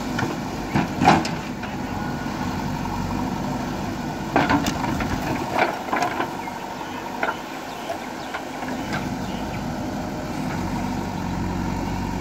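Diesel engine of a heavy earthmoving machine running steadily, with several sharp knocks and clanks: one about a second in and a cluster in the middle.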